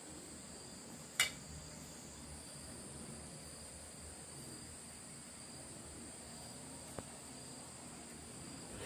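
A quiet, steady high-pitched insect chorus, with one sharp click about a second in and a faint tick near the end.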